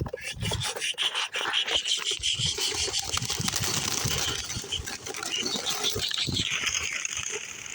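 A flock of racing homer pigeons taking off on release, with a rapid, irregular clatter of wings clapping and flapping.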